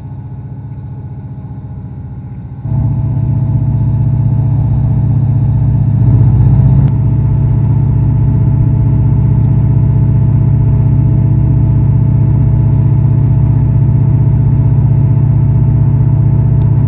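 Diesel passenger train's engine and running noise heard from inside the carriage: a steady low drone with a faint steady whine above it, jumping louder about three seconds in and staying up as the train works under power.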